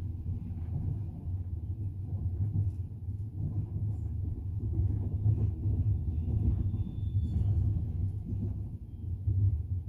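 Passenger train running, heard from inside the carriage: a steady low rumble of the wheels on the rails with a few faint knocks.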